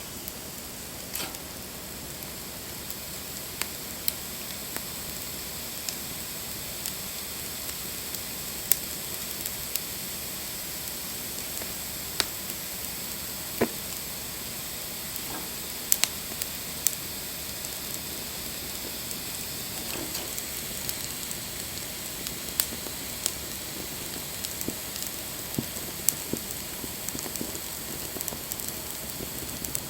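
Wood bonfire burning: a steady hiss with sharp crackles and pops at irregular intervals, one every second or two.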